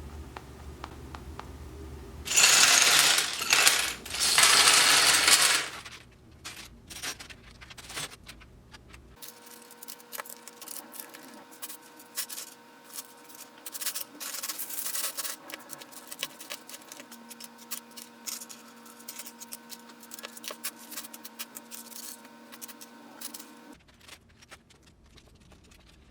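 Loose plastic building bricks clattering: two loud rushes of small pieces spilling, then many quick small clicks of plastic pieces being handled and snapped together.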